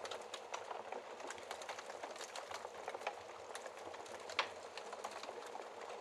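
Wood fire in a fireplace crackling, with a constant hiss and many quick, irregular pops and snaps, one sharper pop about four and a half seconds in.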